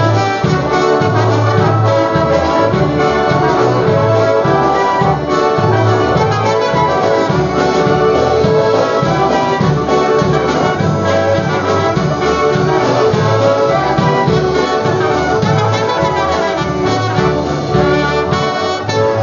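Live polka band playing an instrumental introduction, with brass leading over a steady, bouncing bass beat.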